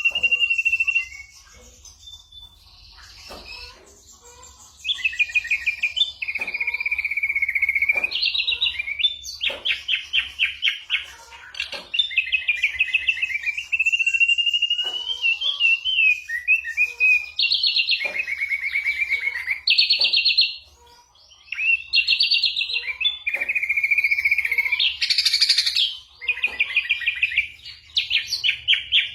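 Ashy drongo singing: a held whistled note, then after a short pause a string of fast, rattling trilled phrases, each a second or two long, with a brief break about two-thirds of the way through.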